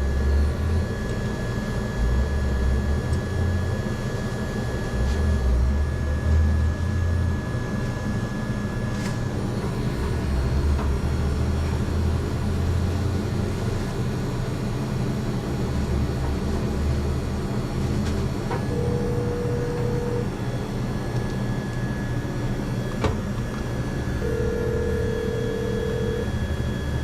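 Steady mechanical hum with a wavering low rumble and a thin, constant high whine. Two short electronic beeps sound in the second half, the second one longer.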